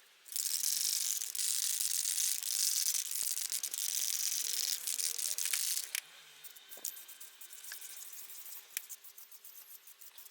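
Aerosol can of zinc paint spraying in a steady hiss for about six seconds, applied to bare metal to keep off rust, then stopping; light clicks and taps follow.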